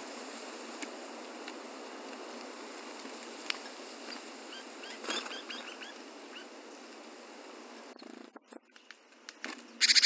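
A small wild bird gives a quick run of short, high, falling chirps about halfway through, with a few sharp clicks, over a steady hiss. After a cut near the end comes one loud, short burst.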